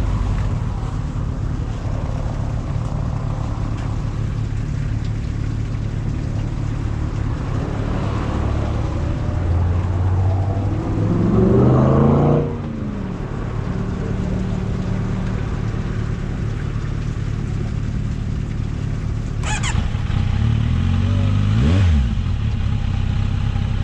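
A vehicle engine running steadily under a constant hum. Its pitch climbs about ten seconds in and drops away suddenly a couple of seconds later, then rises and falls once more near the end. There is a brief sharp sound shortly before that last rise.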